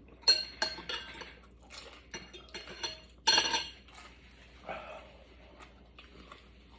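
Utensils clinking and scraping against a soup bowl during a meal: a run of sharp clinks, the loudest about three seconds in, with quieter taps between.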